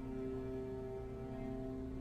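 Background music from the show's score: sustained held notes with no beat.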